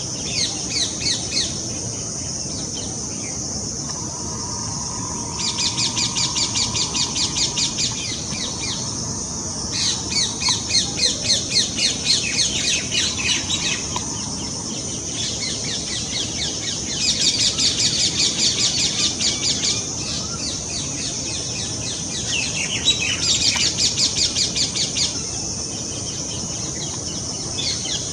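Baby parrot begging for food: bouts of fast, repeated high-pitched chirping calls, about four a second, each bout lasting a few seconds with short pauses between, over a steady high hiss.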